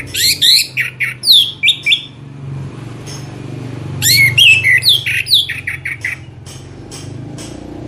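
Songbird singing rapid runs of sharp, down-slurred whistled notes in two bursts, with a pause of about two seconds between them.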